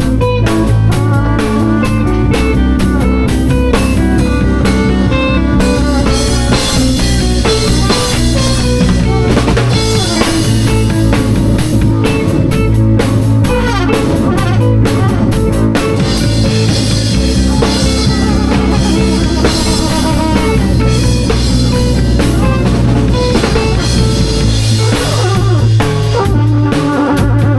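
Live band improvising: a drum kit with rimshots keeping a steady beat under guitar, playing loudly throughout.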